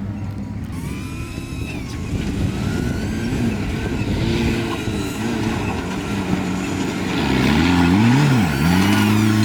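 Off-road 4x4's engine running, revved up and down a couple of times near the end, its pitch dropping and climbing sharply.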